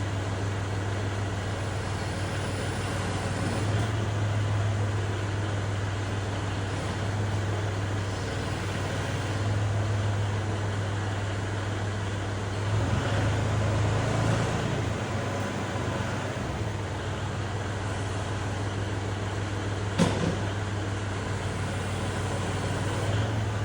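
Kubota tractor's diesel engine running steadily at a constant speed, a low hum that swells slightly now and then. A single sharp knock sounds about twenty seconds in.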